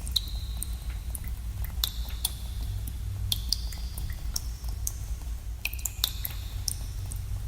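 Water drops falling into pools in a cave: irregular plinks, one to two a second, each with a brief ringing tone and echo, over a steady low rumble.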